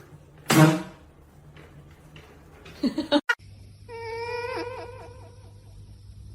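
A cat's long, wavering meow about four seconds in, preceded by a short loud cry about half a second in.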